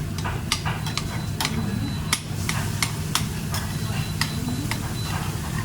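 Busy restaurant-kitchen cooking: utensils clicking and scraping irregularly against pans and dishes, with food frying, over the steady hum of the kitchen's extraction.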